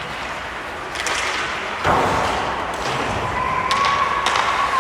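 Ice hockey game sounds: sharp clacks of sticks and puck over a busy arena din, with a loud bang about two seconds in, typical of the puck or a player hitting the boards. A steady high held tone comes in over the last second and a half.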